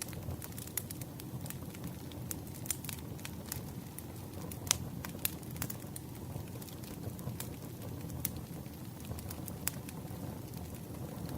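Campfire burning: a steady low rumble of flames with irregular sharp crackles and pops of burning wood, one louder pop about halfway through.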